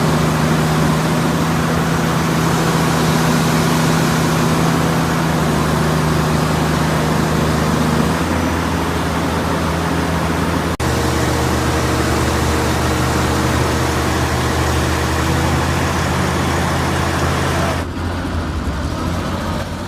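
Heavy diesel engine running steadily at a constant speed, with a steady low hum over a broad rush of noise. The sound breaks off abruptly about eleven seconds in and again near the end, resuming each time at a slightly different pitch.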